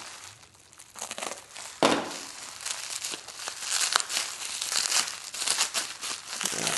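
Packaging being crinkled and torn off a machine part during unpacking, with a sharp knock about two seconds in, then steady crackling.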